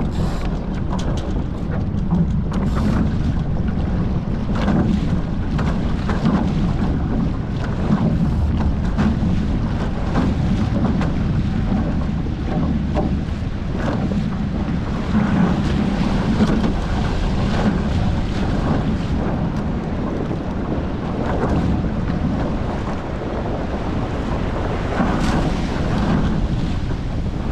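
Wind buffeting the onboard camera microphone and water rushing past the hulls of a Hobie 14 catamaran under sail, with frequent short slaps and splashes of chop against the boat.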